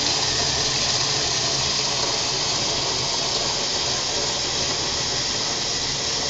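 Water running steadily into an empty electric kettle as it is filled.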